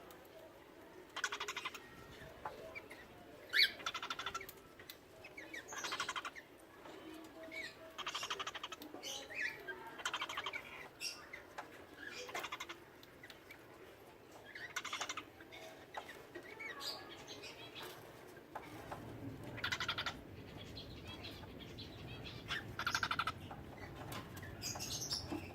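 Cockatiels giving short, buzzy chirping calls, one every second or two. A low hum joins about two-thirds of the way through.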